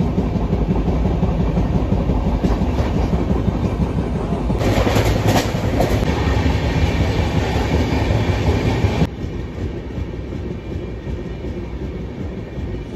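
Running noise of a moving passenger train heard from inside the coach: a steady rumble with the rattle of the wheels over the rails. It grows louder for a few seconds in the middle, then drops suddenly about nine seconds in.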